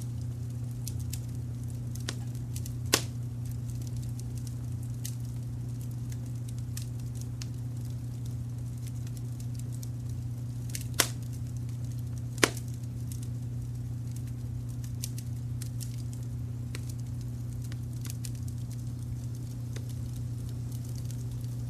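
Wood fire crackling with scattered small snaps and three louder pops, over a steady low brown-noise rumble.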